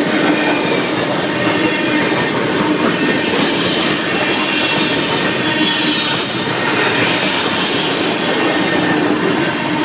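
Canadian Pacific freight cars rolling past close by, a steady rumble and clatter of steel wheels on the rails, with thin high wheel squeal over it.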